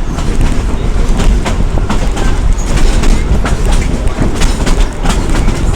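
Narrow-gauge steam train rolling along, heard from aboard: a loud, steady rumble with frequent irregular clicks and clacks of the wheels over the track.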